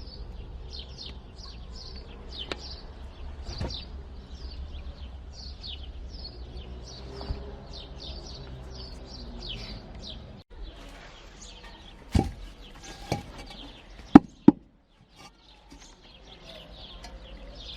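Newly hatched chicks peeping rapidly and continuously in short high chirps. In the last third the peeping breaks off and a few sharp knocks sound, two loud ones close together.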